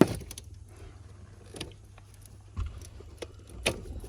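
Scattered sharp clicks and knocks of hands and tools working on car parts, one louder knock at the very start and another near the end, over a steady low hum.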